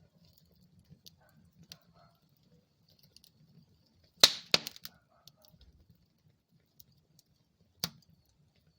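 Wood fire crackling in a fireplace: scattered faint ticks, a loud double pop about four seconds in, and another sharp pop near the end.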